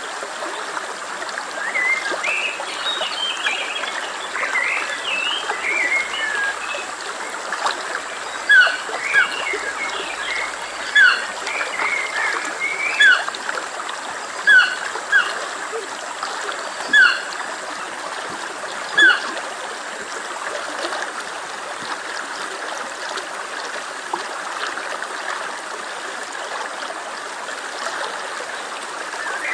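Stream flowing steadily, with birds chirping over it. From about eight seconds in, one bird repeats a short falling call roughly every two seconds, eight times; these calls are the loudest sounds.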